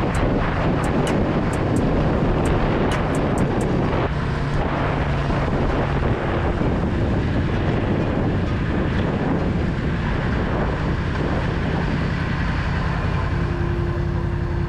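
Yamaha MT-10's crossplane inline-four engine running steadily while the bike cruises, with wind rushing over the microphone.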